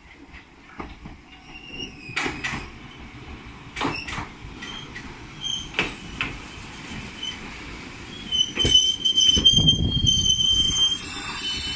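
Small electric commuter train pulling into a station: its wheels knock over the rail joints, getting louder as it nears, then a steady high squeal sets in as it brakes alongside the platform. A hiss comes near the end.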